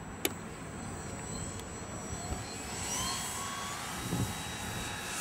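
Motor and propeller of an RC model Cessna 182 whining, the pitch rising about three seconds in as it throttles up in flight, over rushing wind noise.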